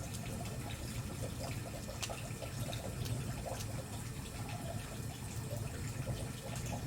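Wood campfire burning: a steady low rush of flames with frequent small crackles and pops from the burning firewood.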